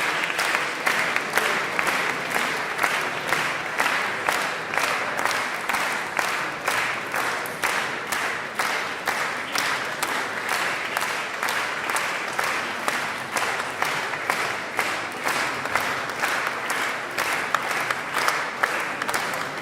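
Concert audience applauding, the clapping falling into a regular beat of about two claps a second.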